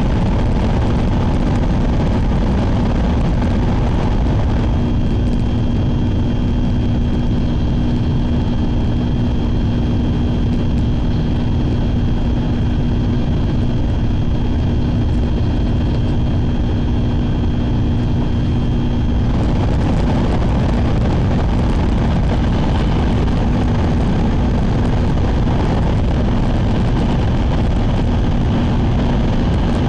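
Shinkansen train running at speed, heard from inside the passenger cabin: a steady deep rumble and rush. A low hum and a faint high whine sound through the first two-thirds, then drop out as the noise changes character.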